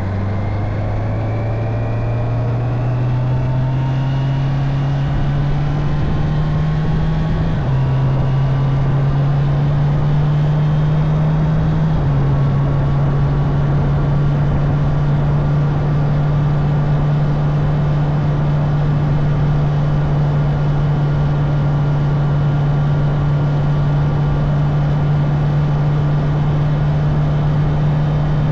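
Honda CB650R's inline-four engine pulling up through the gears: its pitch climbs, drops at an upshift about seven seconds in, climbs again, drops at another upshift about twelve seconds in, then holds steady at cruising speed. A steady rushing noise runs underneath.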